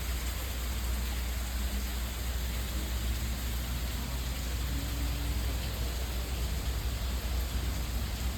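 Steady rushing noise with a deep rumble underneath, unchanging throughout.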